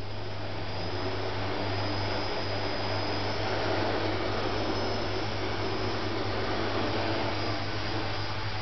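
Home-built quadcopter's four electric motors and propellers running, a steady whirring rush with a faint high whine that swells a little in the first few seconds. A constant low hum sits underneath.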